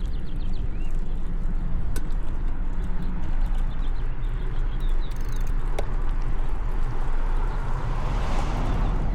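Wind buffeting the microphone and tyre and road rumble while riding a bicycle along a street, with a few sharp ticks. A rushing swell of noise builds and peaks near the end, like a car passing close by.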